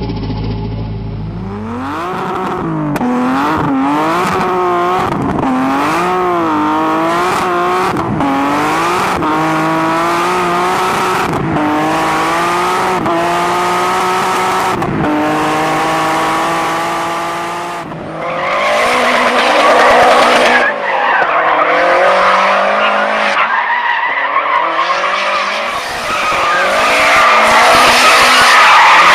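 Tuned turbocharged car engine revving, its pitch swinging up and down, then pulling hard through several gears, each rising sweep cut off by a short break at the shift. About eighteen seconds in, this gives way to a louder, harsher stretch of engine and screeching noise.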